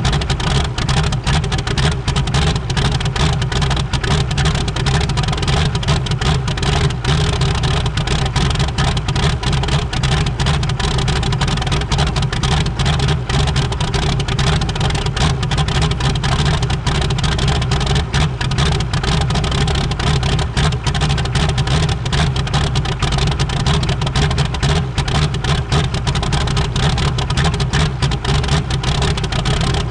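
A 6.5-litre V8 diesel engine idling steadily, with a rapid, even beat.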